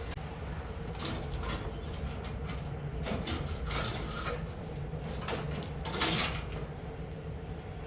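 Workshop handling noises: scattered knocks and scrapes over a steady low hum, with a louder scrape about six seconds in.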